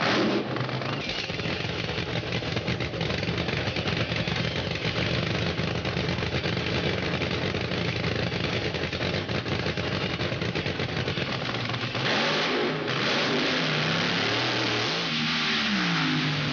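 Racing car engines at full throttle, led by a nitro funny car's engine: a steady engine note, then a louder rushing roar from about twelve seconds in, and a falling pitch near the end as the engine winds down.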